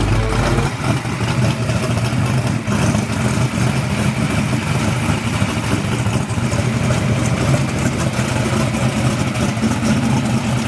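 A vehicle engine running steadily at an even speed, a loud constant low drone with no revving.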